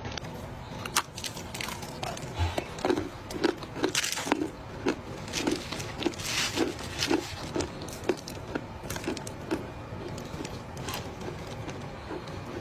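A mouthful of dry clay being chewed close to the microphone: crisp crunches about two a second, with sharp cracking clicks, thinning out toward the end.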